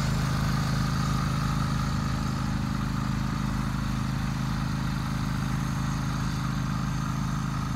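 John Deere X324 lawn tractor's V-twin engine running steadily, working a 44-inch snowblower.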